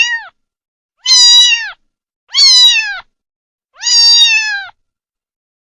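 Domestic cat meowing: the end of one meow, then three more clear meows evenly spaced, each dropping in pitch as it ends.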